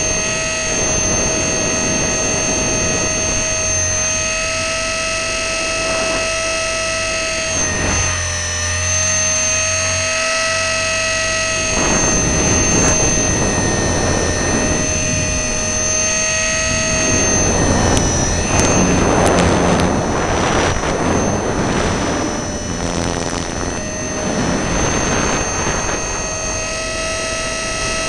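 E-flite Blade 400 RC helicopter's electric motor and gear drive whining steadily in flight, heard from a camera mounted on the helicopter. The whine dips in pitch briefly a few times. Gusts of rushing air noise rise over it through the second half.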